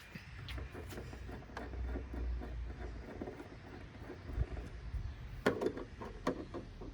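Handling noise from working on a flat-screen TV's plastic back and stand: a low rumble with scattered light clicks, then a cluster of sharper knocks about five and a half seconds in.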